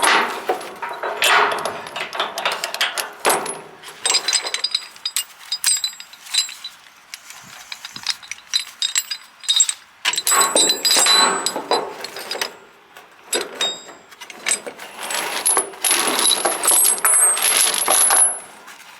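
Steel tie-down chain clinking and rattling as it is handled and hooked up, in several bursts of metallic clatter with a quieter stretch in the middle.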